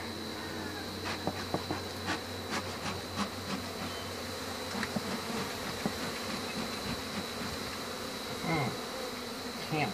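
Honey bees buzzing in a steady mass hum. Scattered short clicks and knocks sound over it, along with a constant high tone.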